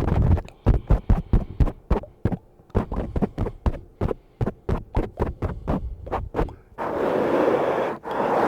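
Brush on a microphone: a quick run of short scratchy strokes, about four a second, turning into continuous brushing for the last second and a half.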